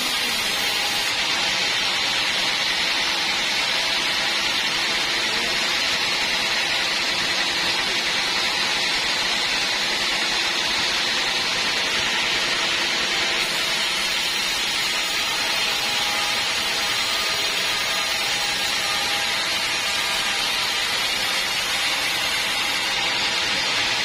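Sawmill band saw running steadily: an even, unbroken hiss with a faint hum beneath it.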